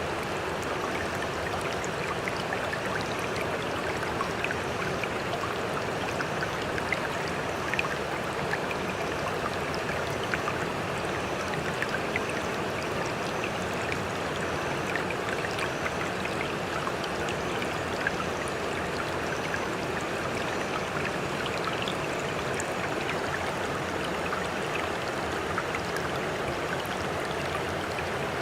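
Continuous water sound: an even wash of moving water, flecked with small splashes and droplet ticks, without any distinct rise and fall of breaking waves.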